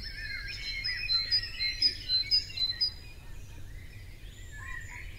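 Several birds chirping and calling: many short high chirps and small arching calls overlapping one another.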